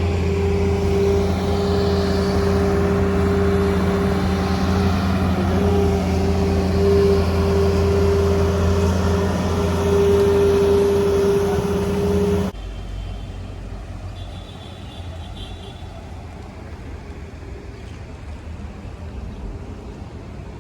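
An engine running with a steady, even hum. It cuts off abruptly about twelve seconds in, leaving quieter outdoor background noise.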